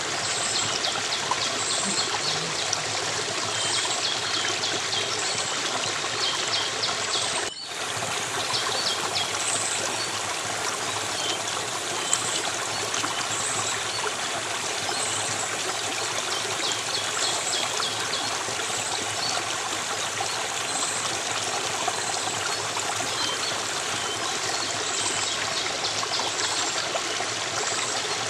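Stream water flowing and trickling steadily, with faint high chirps recurring every second or so over it. The sound cuts out for an instant about seven and a half seconds in.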